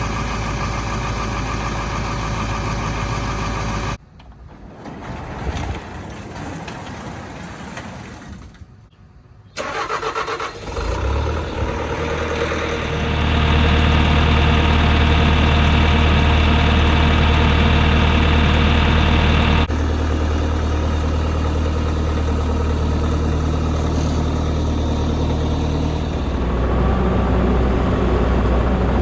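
An engine running steadily, cut off abruptly about four seconds in; about ten seconds in an engine starts and builds to a loud, steady run.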